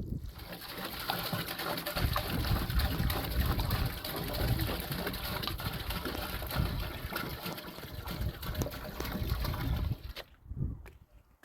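Running water: a steady rushing noise with small ticks in it, cutting off abruptly about ten seconds in.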